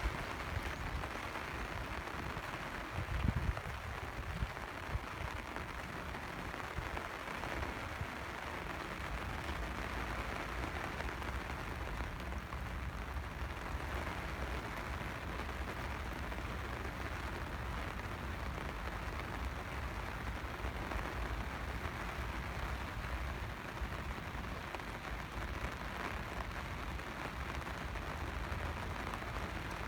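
Steady rain falling and hissing on surfaces, with a short low thump a few seconds in.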